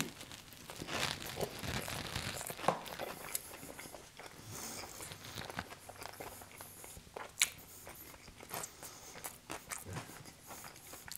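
Close-up chewing of a bite of pepperoni pizza dipped in barbecue sauce and coated in crunchy fried onions, the onions crunching in irregular bursts, one sharp crunch about seven seconds in.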